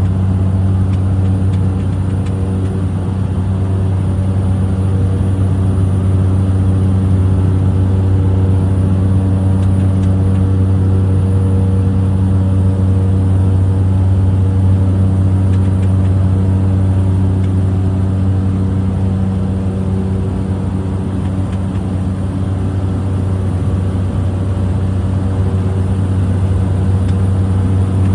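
Small plane's engine and propeller droning steadily in flight, heard from inside the cabin, with a deep, even hum.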